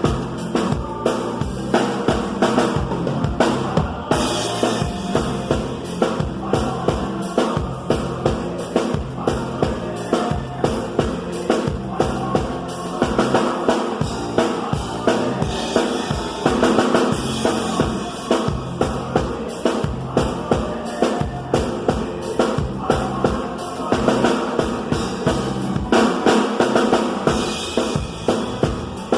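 Live band music driven by a drum kit playing a steady beat, with bass drum and snare hits evenly spaced under pitched band instruments.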